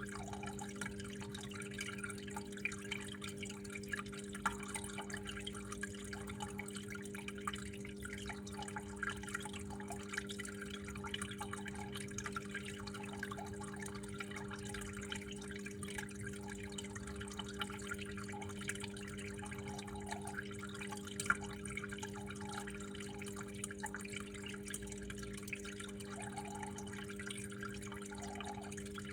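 Water trickling and dripping steadily, with many small splashes, over a constant low hum.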